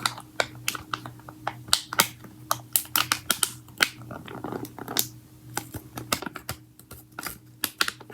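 Fingernails tapping and clicking on slime packaging: quick, irregular sharp taps, several a second, over a faint steady hum.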